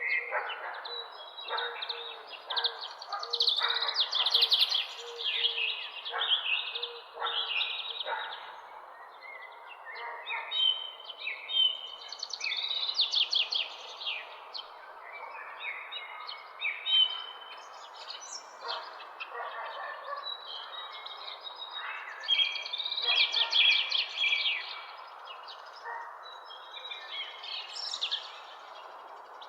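Several small birds chirping and singing at once in a morning chorus: quick, rapid-fire trills and high chirps that overlap and come and go throughout, over a steady background hiss.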